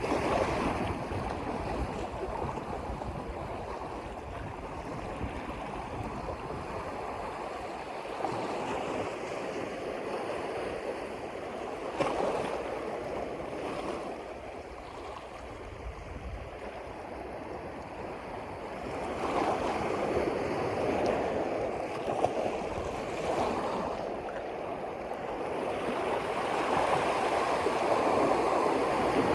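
Water washing in surges, like small waves or current, swelling louder and easing off every few seconds.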